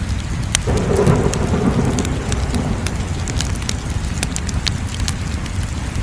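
Wood fire crackling, with sharp irregular pops over a steady low rumble. About half a second in, a rushing swell rises suddenly and fades away over about two seconds.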